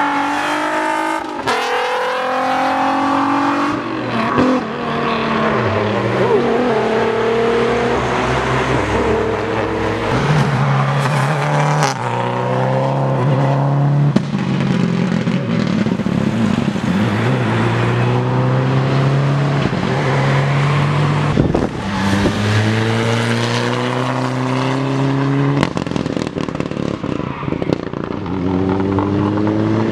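Rally car engines driven at full throttle, one car after another: each engine revs up with a rising pitch, drops at the gear changes, and climbs again.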